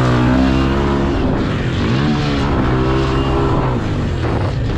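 Pit bike engine racing on-board, revving up and dropping back several times as the throttle is rolled on and off.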